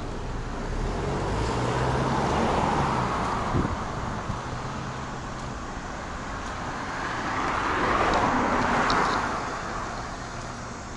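Two cars driving past one after another, the first loudest about two and a half seconds in and the second about eight seconds in. Each rises to a tyre-and-engine hiss and fades away, and a low engine hum is heard under the first.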